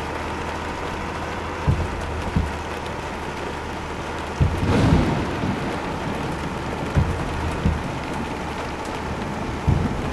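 Steady running noise of a moving truck, with pairs of short low thumps every few seconds as its wheels go over bumps in the road, and a longer rumble about halfway.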